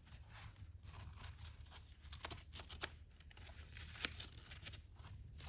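Faint handling noises: scattered small clicks and rustles over a low steady hum.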